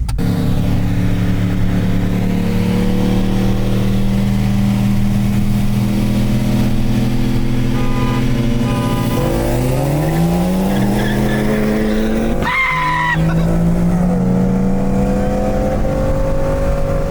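Cars in a roll race: engines drone steadily at cruising speed, then about nine seconds in they accelerate hard with their pitch climbing. A brief sharp squeal with a rush of noise follows around twelve seconds in, and the engines pull on, rising slowly.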